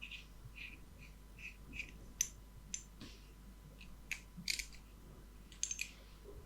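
Faint, scattered light clicks and ticks of small carburettor parts being handled and fitted together: the throttle slide, jet needle and its keeper. A handful of sharper clicks stand out from the softer ticking.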